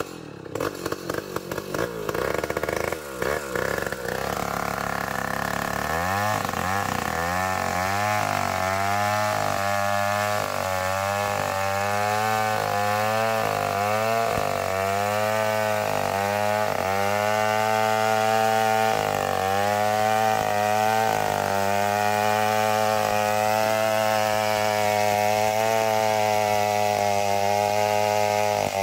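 Chainsaw cutting an ulin (Bornean ironwood) log lengthwise into beams. After a few seconds of uneven running, the saw runs under full throttle. Its engine pitch sags and recovers again and again as the chain bites into the hard wood, then holds steadier in the second half.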